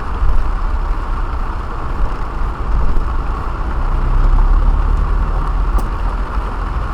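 Car cabin noise while driving in heavy rain: a steady low road and engine rumble under an even hiss of rain. A low hum rises in about four seconds in and fades near the end.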